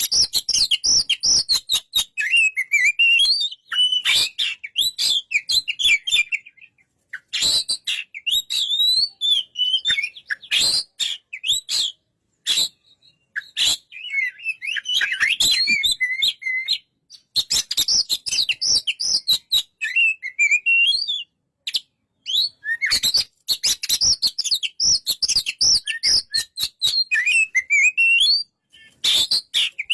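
Oriental magpie-robin (kacer) singing bouts of fast, varied whistled and chattering phrases, with many sharp clicks mixed in. The song breaks off briefly about twelve and twenty-one seconds in.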